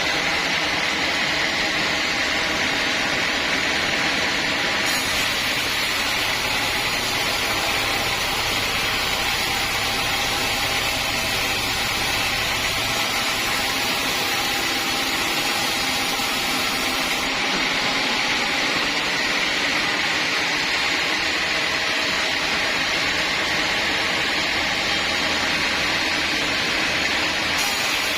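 Sawmill saw running continuously through teak, a steady, unbroken machine noise with a strong high hiss.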